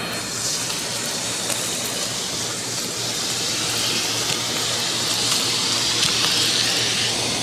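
Bissell CleanView Compact 3508 upright vacuum cleaner running steadily: a motor hum under a rush of air that grows a little stronger midway, with faint ticks of grit being sucked up.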